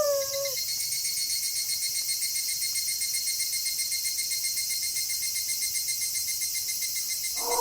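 Crickets chirping steadily in a fast, even pulse. A wolf howl trails off with a dropping pitch right at the start, and another wolf howl begins just before the end.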